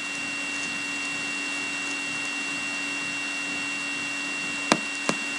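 Steady electrical hum and hiss with a constant high whine over a low tone, and two sharp clicks near the end.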